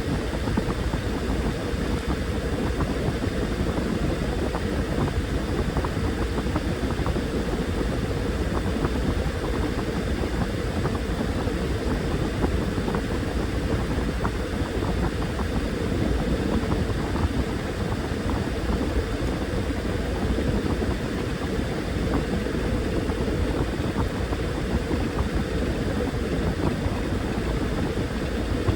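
Washing machine running: a steady, unbroken hum and rush of its motor and drum.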